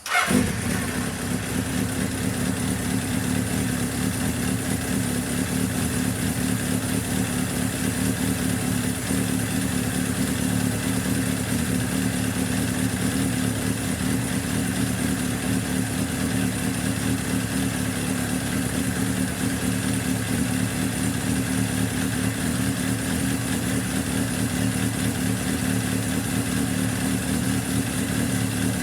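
Suzuki GSX750S Katana's air-cooled inline-four engine starting up, catching at once, then running steadily.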